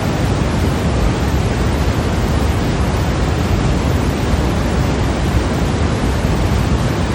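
Steady synthetic white noise: an even, unbroken hiss, heavier in the low end, with no changes.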